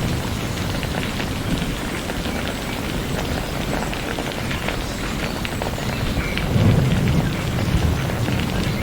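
Steady rain falling, with individual drops ticking. A low rumble of thunder swells up about two-thirds of the way through.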